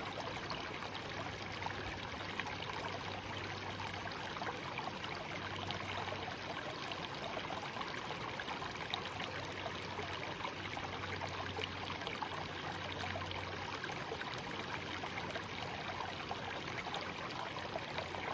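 Shallow stream water running and trickling steadily, a constant babble with many small splashes and gurgles.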